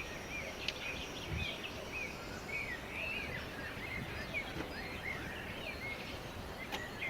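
Small birds chirping and twittering in many short repeated notes over a steady outdoor background hiss, with a couple of faint clicks.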